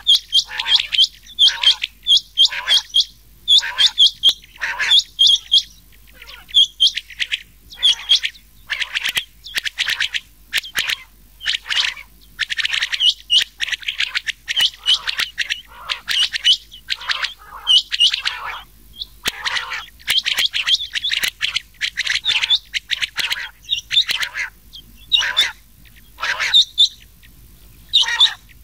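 Rain quail calls mixed with common quail calls, played as a hunting lure: loud, short, sharp notes repeated in quick runs, with a few brief pauses.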